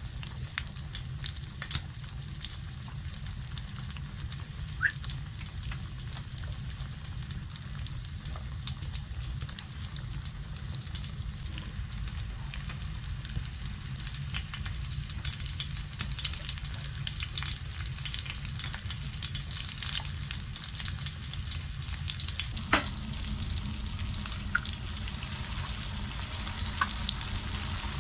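Tomato halves sizzling in a pan on a wood-burning stove: a steady frying hiss with scattered small pops and crackles. There is one sharp click about 23 seconds in.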